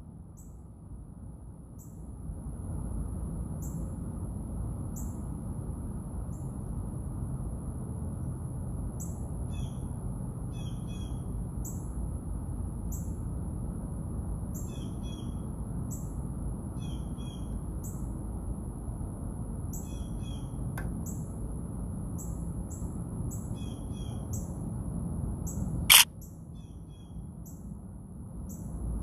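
Outdoor birdsong: short falling chirps repeating about once a second, with a few brief call phrases in between, over a steady high-pitched whine and a low rumble. A single sharp click near the end is the loudest sound.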